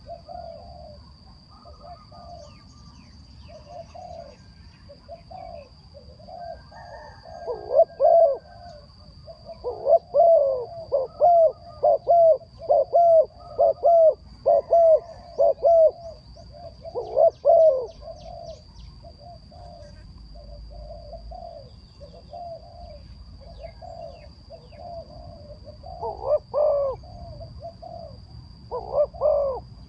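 Bird calling: a long run of short, low notes, quickest and loudest in a series of about two notes a second in the middle, with a few louder calls near the end. A faint steady high tone runs underneath.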